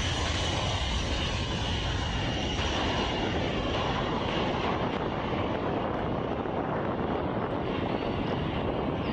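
Aircraft engine noise: a steady rush with a high whine that fades over the first few seconds, the sound growing duller toward the end.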